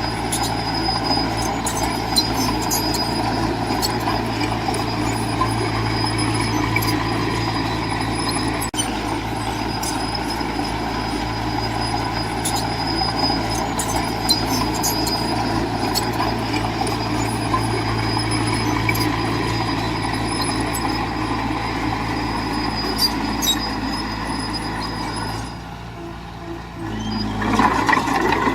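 Heavy earthmoving machinery with a diesel engine running steadily under load, with scattered sharp metallic clicks. The engine drops off briefly near the end, then picks up again.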